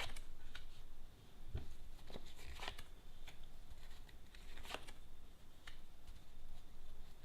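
Tarot cards being handled and turned over on a table: a string of soft, irregular card snaps and rustles, about eight in all.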